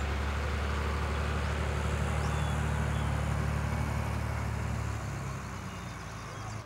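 Tractor engine running steadily as it pulls a grass mower cutting through the field, a deep even hum with a rushing noise over it. The sound grows quieter about five seconds in.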